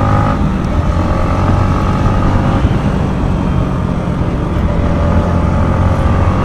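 Yamaha MT-15's 155 cc single-cylinder engine running at a steady speed under the rider. Its engine note holds level, eases off briefly around the middle, then returns.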